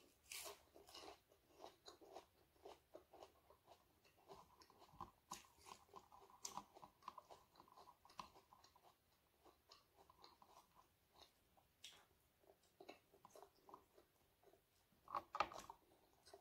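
Chewing and crunching of crisp fried dried fish and squid, a run of small crackles and mouth clicks, with a louder crunch about a second before the end.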